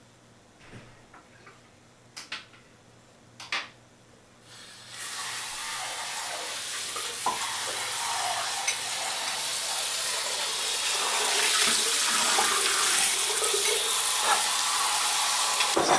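A few faint clicks, then from about five seconds in a steady hiss of rain starts suddenly and grows slowly louder.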